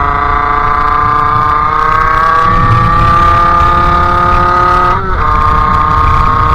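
50cc two-stroke engine with a KRM expansion exhaust running hard under way, its pitch climbing slowly as the revs build. About five seconds in the revs dip briefly, then settle steady again.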